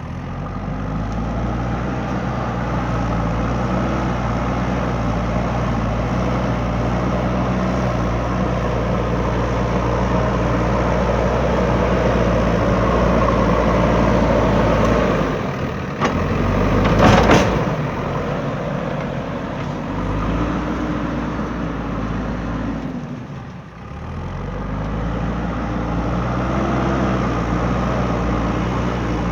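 JCB 3DX backhoe loader's diesel engine running hard under load, its pitch rising and falling as the throttle changes. About 17 seconds in, a loud rushing burst lasts about a second.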